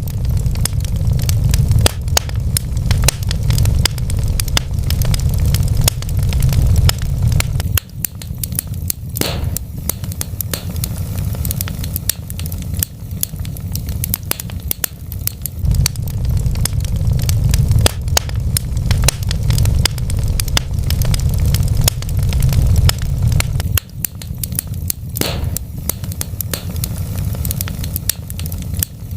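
Wood fire burning in a fireplace: a steady low rumble with dense crackling and popping throughout, and two sharper pops about nine seconds in and near the end.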